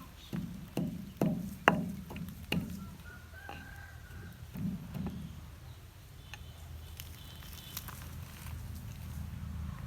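About six dull knocks, irregularly spaced, in the first five seconds, with a short high call, like a chicken or bird, about three and a half seconds in and faint chirping later.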